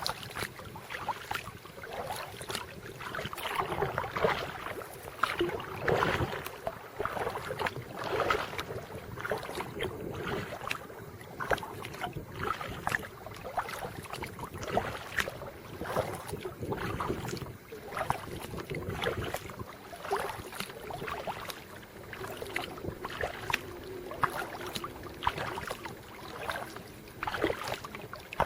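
Kayak paddle strokes in lake water: the blades dip and splash over and over at an irregular, unhurried pace.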